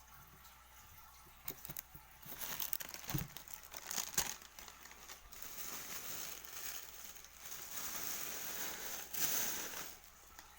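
Plastic bag crinkling and rustling in irregular bursts, starting about a second and a half in and dying away near the end.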